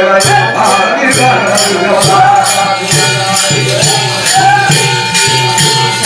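Devotional jagran music: a voice singing over a steady beat of drum and jingling hand percussion, about three strokes a second, with a long held note from about two-thirds of the way in.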